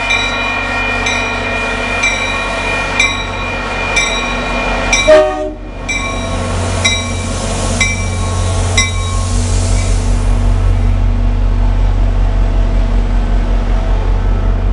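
A commuter-rail diesel locomotive comes into the platform with its bell ringing about once a second and a sharp loud burst about five seconds in. As it passes, a deep diesel engine rumble takes over, followed by a rhythmic wheel clatter as the train rolls by.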